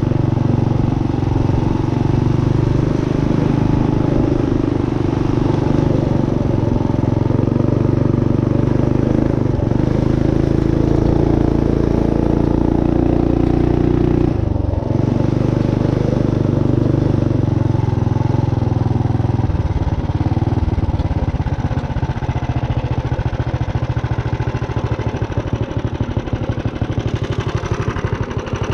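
Minibike's built Tillotson 212 single-cylinder four-stroke engine running at steady throttle, dipping briefly in pitch about halfway through. About two-thirds of the way in it drops to a slower, uneven pulsing as it comes down toward idle.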